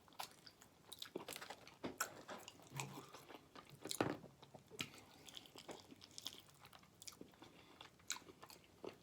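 A person chewing and biting food close to the microphone: soft, irregular wet mouth clicks and smacks, with a few crunches.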